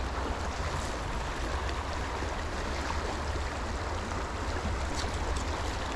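River current rushing steadily over a rocky trout stream, an even wash of water noise with a low rumble.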